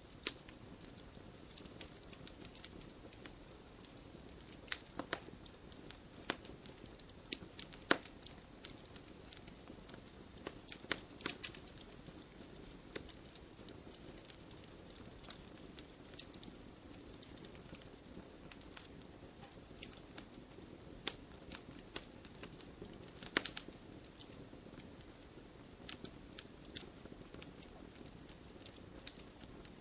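Campfire crackling: irregular sharp pops and snaps, a few louder ones, over a steady low hiss of burning.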